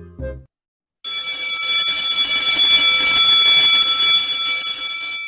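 A loud bell ringing steadily at one high pitch for about four seconds, starting about a second in: an alarm bell.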